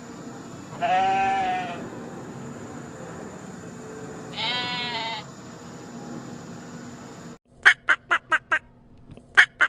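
A goat bleating twice, each call about a second long and wavering. About seven seconds in, a different recording cuts in with a quick run of short, sharp calls, five in a row and then a few more.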